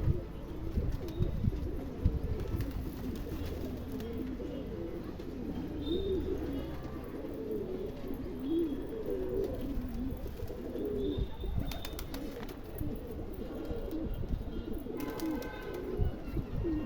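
Pigeons cooing: a run of low, wavering coos repeating one after another.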